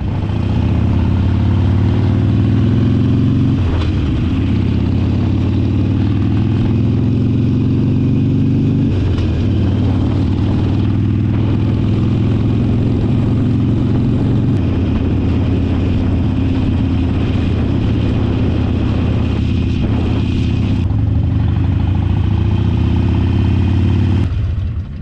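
Motorcycle engine running while riding, its pitch climbing and falling back with gear shifts about 4 and 9 seconds in, over wind and road noise. It drops away suddenly near the end.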